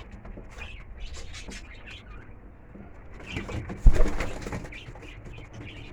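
Young racing pigeons bathing in a water bath, with scattered splashes and cooing. About three and a half seconds in comes a loud burst of wing-flapping and splashing with a sharp knock.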